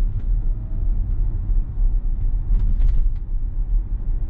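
Steady low road and tyre rumble of a Tesla electric car driving slowly, heard from inside the cabin.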